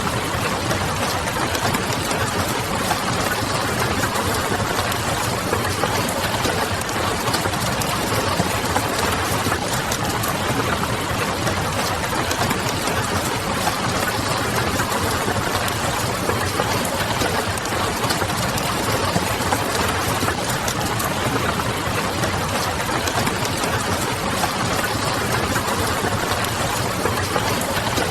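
Steady rain on a window mixed with the crackle of a wood fire and a low, even hum beneath.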